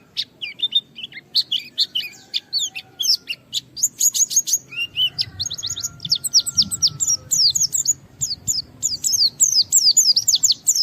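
White-eye (pleci) singing vigorously: a rapid, almost unbroken run of short, high chirps, most sweeping downward.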